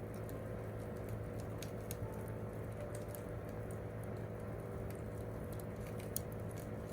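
Wood campfire crackling: scattered sharp pops and snaps over a steady low rumble, with one louder pop about six seconds in.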